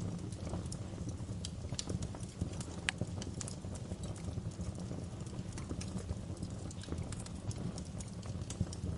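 Wood fire crackling in a fireplace: irregular sharp pops and snaps over a steady low rumble of the burning fire, with one louder snap about three seconds in.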